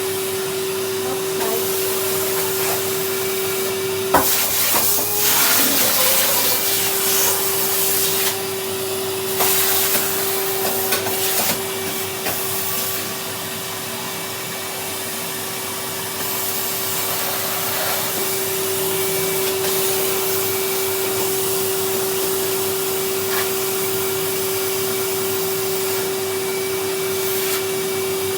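Numatic Henry cylinder vacuum cleaner running steadily: a constant motor hum under a rushing hiss of suction. A few knocks and rattles come in between about four and twelve seconds in as the floor tool is worked around.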